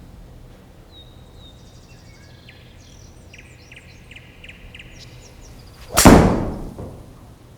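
A golf club striking a ball in a full swing: one loud, sharp hit about six seconds in that rings out and fades over about a second.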